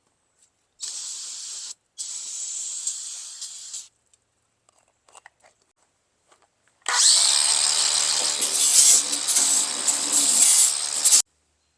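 Two short sprays of aerosol brake cleaner hissing, about one and two seconds long. A few seconds later a power tool, an angle grinder, runs loud and rasping on the rusty tailgate metal for about four seconds, taking it down to fresh metal, then cuts off.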